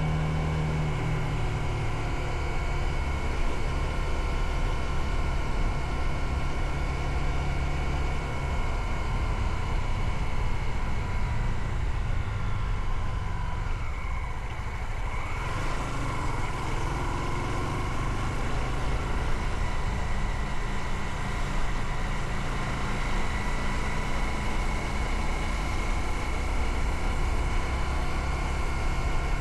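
Motorcycle engine running while riding, with steady road noise; about halfway through the sound eases off briefly, then the engine note climbs again.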